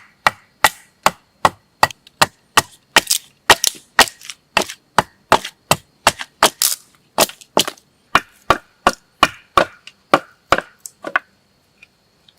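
Rapid, evenly paced chopping into wood with a blade, about three strikes a second, which stops about eleven seconds in.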